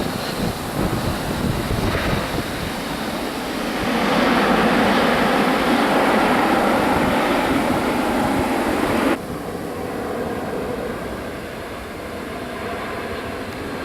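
Jet airliner noise: a broad, steady rush that swells louder about four seconds in, then drops off abruptly a little after nine seconds, leaving a quieter steady rush.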